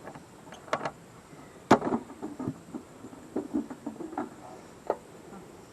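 Irregular sharp clicks and knocks of a plastic first-aid case being handled and opened and its contents moved about, the loudest knock about two seconds in.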